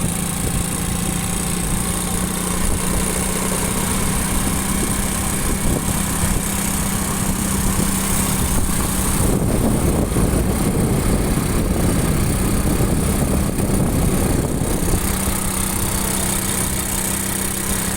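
Motorcycle engine running at a steady note while riding, over road and wind noise. For several seconds in the middle a louder rough rumble drowns out the steady engine note.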